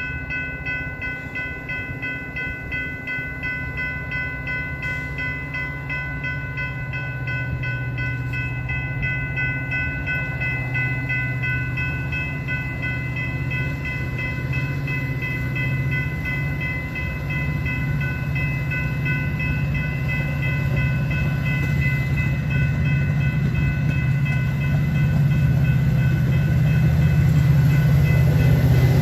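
A bell ringing rapidly and steadily over the rumble of a Metra commuter train's diesel locomotive. The engine grows louder toward the end as the train starts to pull away from the platform.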